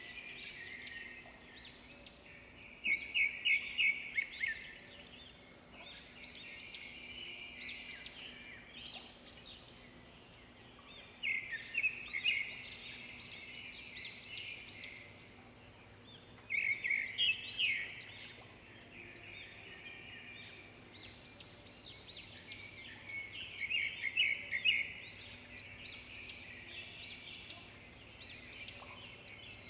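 Songbirds singing: loud phrases of quick chirps and trills come every few seconds, with softer chirping in between. A faint steady low hum runs underneath.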